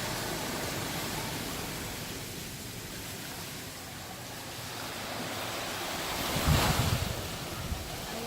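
Sea surf washing onto the beach, with one louder surge about six and a half seconds in.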